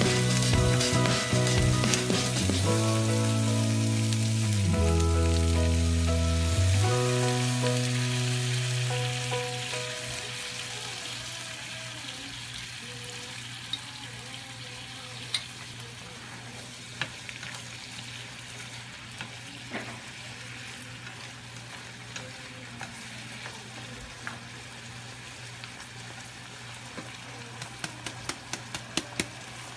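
Breaded fish fillet pieces sizzling steadily in a frying pan, with occasional sharp clicks of chopsticks against the pan and a cluster of them near the end. Background music plays at the start and fades out about a third of the way in.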